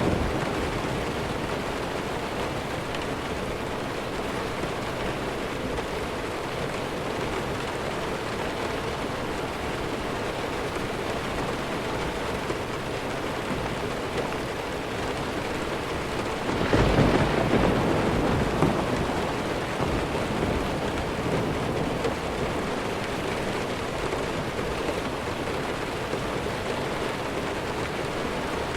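Steady heavy rain falling, with a roll of distant thunder swelling up about two-thirds of the way through and dying away over a couple of seconds.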